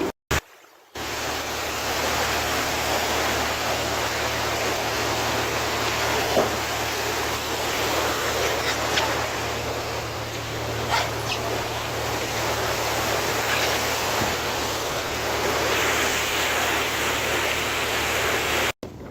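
Steady rush of wind and sea water over a boat's deck, with a low steady drone of the vessel's engine underneath.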